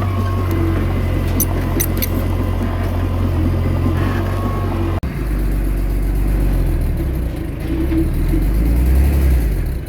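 Heavy diesel engine of earthmoving machinery running steadily under load, with a few sharp metallic clicks early on. Halfway through, the sound breaks off abruptly and comes back as a deeper rumble that swells near the end.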